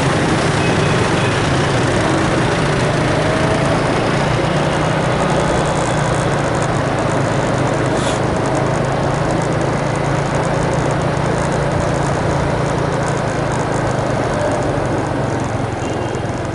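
An engine running steadily: a constant low drone under a broad noisy hiss, easing off slightly near the end.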